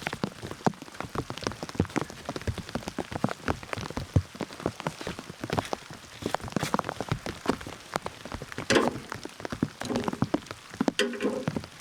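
Rain dripping and pattering on surfaces as many irregular, sharp little taps. Two short pitched calls break in, about 9 and 11 seconds in.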